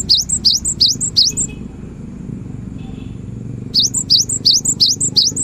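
Cinereous tit (gelatik batu) singing a series of quick rising whistled notes, about three or four a second. The song comes in two runs, the first stopping about a second and a half in and the second starting near four seconds in, over a steady low hum.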